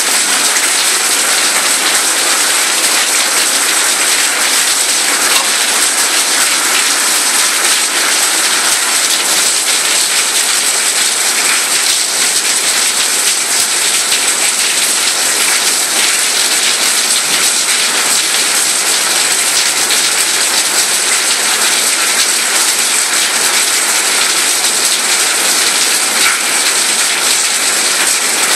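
Steady heavy rain: a dense, even hiss of falling drops.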